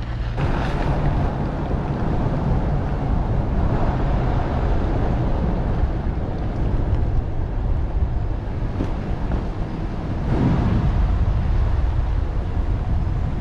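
4x4 truck driving, a steady rumble of engine, tyres and wind noise on the microphone, which swells just after the start and again about ten seconds in.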